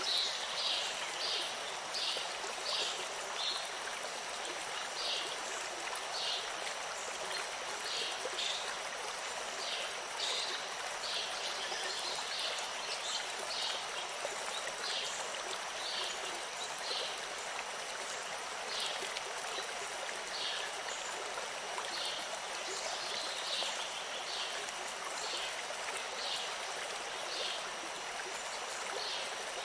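Stream water running with a steady rushing sound, over which short high chirps repeat irregularly, about one a second.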